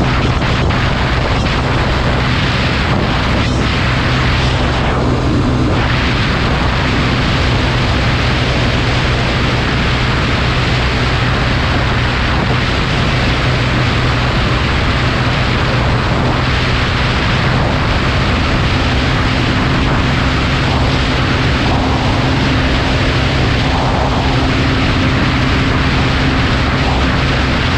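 Motorcycle engine running at a steady speed with a constant drone, under heavy wind rush on the microphone, with no change in pitch or level.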